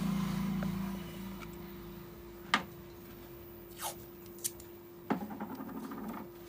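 Small tools and phone parts handled on a repair bench: a low hum at first, then a few sharp clicks and taps, and about five seconds in a click followed by a short rapid rattle.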